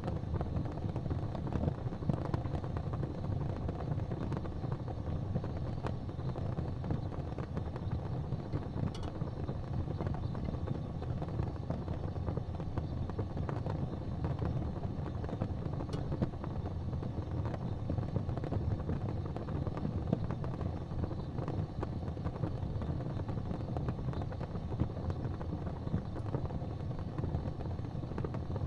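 Wood fire burning in a fireplace: a steady low rumble of the flames, with a couple of faint pops from the burning wood.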